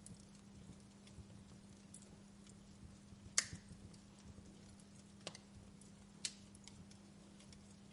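Wood fire crackling in a fireplace: scattered faint crackles, with one sharp pop about three and a half seconds in and two smaller pops later.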